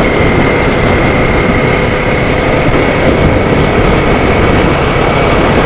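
Kawasaki Z400 parallel-twin running at a steady road speed through its Toro slip-on exhaust with the DB killer fitted, under a steady rush of riding noise. With the DB killer in, the exhaust is not very loud.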